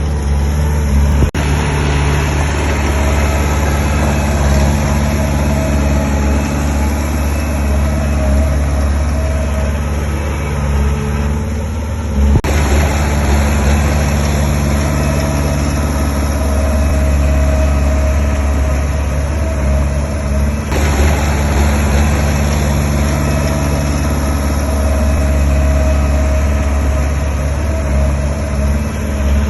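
Diesel engine of heavy earthmoving equipment running steadily with a deep, even drone. The sound changes abruptly three times, about a second, twelve seconds and twenty-one seconds in.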